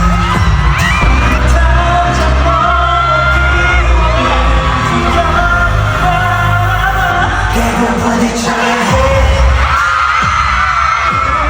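Pop song played loud through a concert PA system, with singing over a backing track with heavy bass; the bass drops out briefly about three-quarters of the way through.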